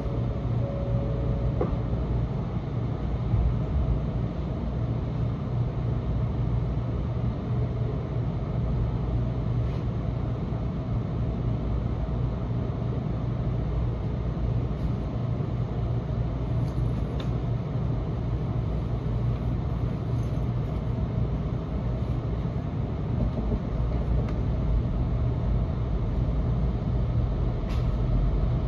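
Steady low hum inside a Nishi-Kyushu Shinkansen Kamome car standing at a station platform. It grows a little louder near the end as the train starts to pull away.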